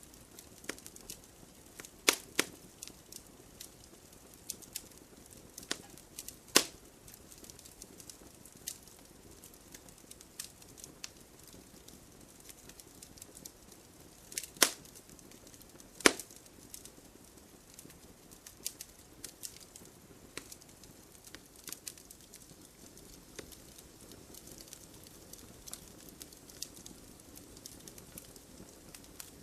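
Wood campfire crackling over a low steady hiss, with frequent small snaps and a few louder pops, about 2, 6.5, 14.5 and 16 seconds in.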